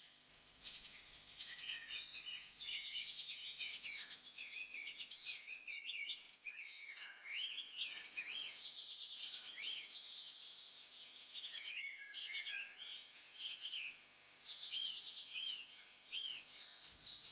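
Several birds chirping, trilling and whistling over one another in a continuous chorus.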